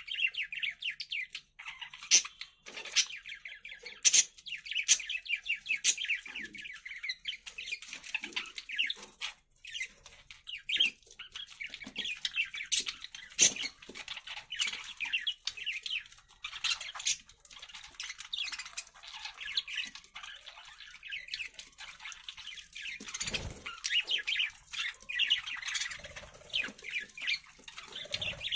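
Budgerigars chirping and chattering continuously in a fast, busy stream of high chirps, with scattered sharp clicks among them.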